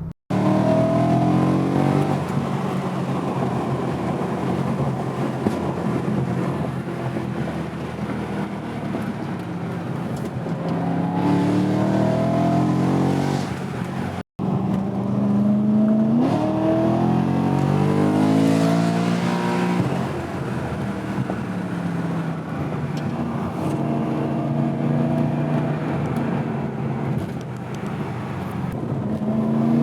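BMW E92 M3's V8 engine and exhaust under hard driving, its pitch repeatedly climbing as it revs up and falling back at each shift or lift-off. The sound drops out briefly twice, near the start and about halfway through.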